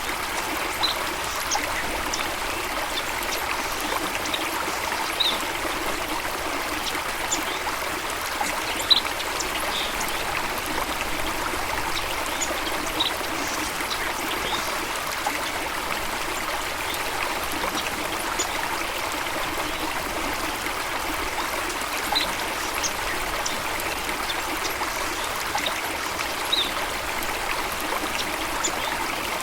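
Steady rush and trickle of flowing stream water, with a few brief high-pitched blips scattered through it, the loudest about nine seconds in.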